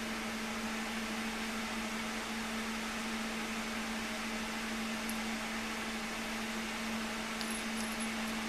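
Steady machine hum with an even hiss, unchanging throughout, with a few faint light ticks near the end.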